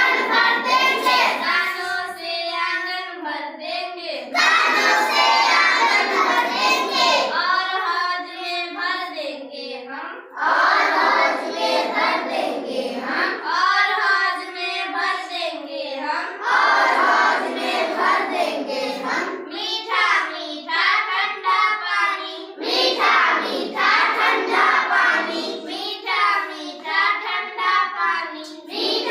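A child singing a Hindi children's poem in a sing-song tune, phrase after phrase with short breaks between lines.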